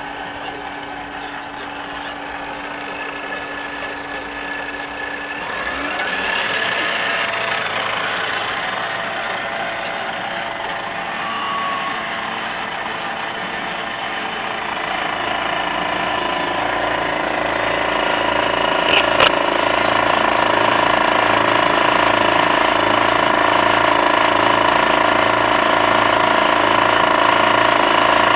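Milling machine running steadily while cutting a lathe gear. A rising whine comes about six seconds in. From about halfway through the sound grows louder with a regular pulsing, as the gear cutter works through the blank.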